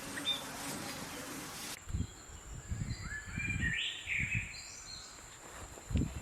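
Bird calling with a series of short chirps and whistles, after an even hiss that stops suddenly about two seconds in. A steady high whine and a few low thumps run under the calls.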